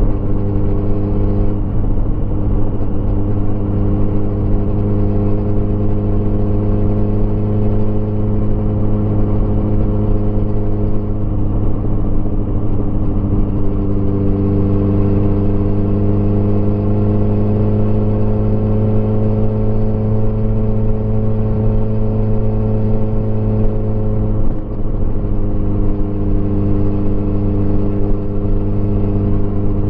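Motorcycle engine running steadily while riding, its pitch rising a little about halfway through and easing back down, with a brief dip in level near the end.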